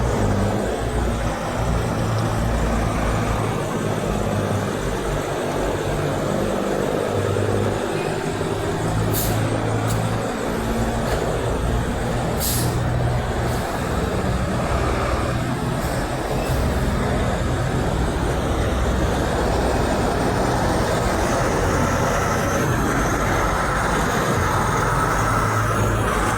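Road traffic with semi trucks' diesel engines running past, a steady low rumble and tyre noise. There are two short high hisses about nine and twelve seconds in.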